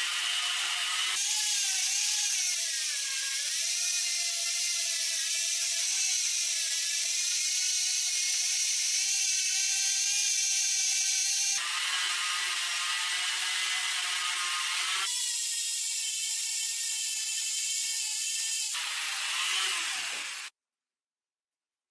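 High-speed power tool running with a steady high-pitched whine, in several stretches that change pitch abruptly, cutting off to silence near the end.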